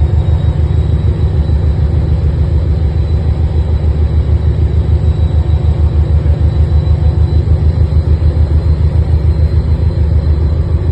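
Diesel locomotive engine working hard under power, heard from the driving trailer cab at the far end of the train: a loud, steady, rapidly pulsing low rumble as the train pulls away, with a faint high whine above it.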